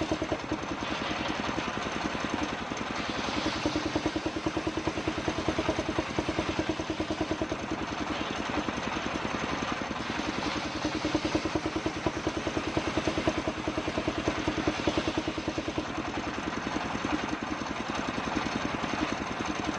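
Circular sawing machine running steadily, with a fast, even pulsing like an engine.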